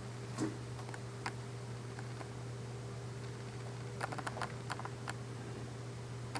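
Small bird-shaped clay bell (dorei) handled and shaken, giving dry clay clicks: a single click near the start, another about a second later, then a quick run of clicks about four seconds in.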